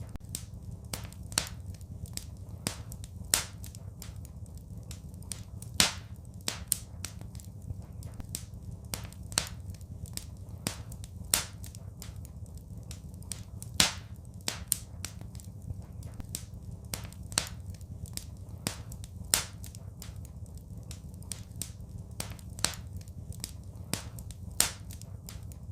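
Fireplace fire crackling: irregular sharp pops, a few of them much louder, over a steady low rumble.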